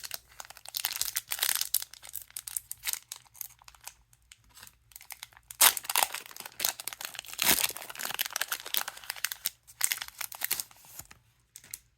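A trading-card booster pack wrapper being torn open and crinkled, in irregular rustling bursts with two sharper cracks around the middle.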